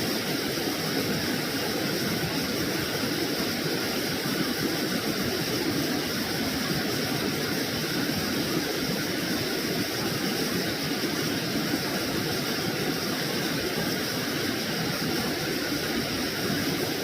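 Steady rushing of stream water, with an even high-pitched hiss or buzz held over it.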